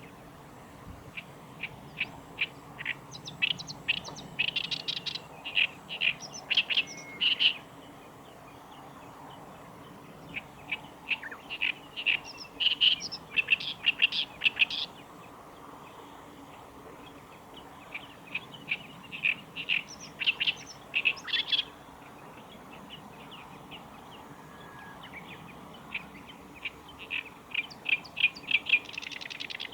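Black-browed reed warbler singing: four bouts of rapid, varied short notes, each several seconds long, with pauses of a few seconds between them.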